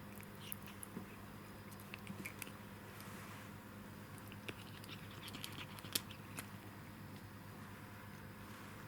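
Faint scattered taps, scratches and clicks of a Norwegian Forest Cat playing with toy mice, with one sharper tap about six seconds in, over a steady low hum.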